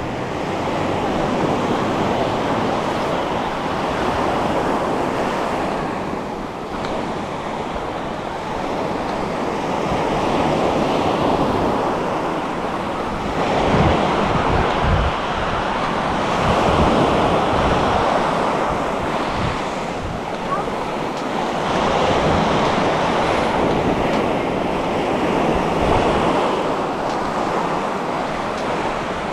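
Waves breaking and washing onto a beach, surging every few seconds, with wind buffeting the microphone.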